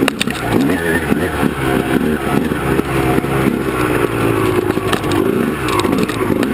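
Honda CR250R two-stroke dirt-bike engine being ridden hard, its revs rising and falling with the throttle.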